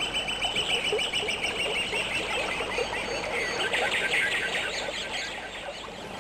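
Birds chirping, many short calls overlapping, getting quieter near the end.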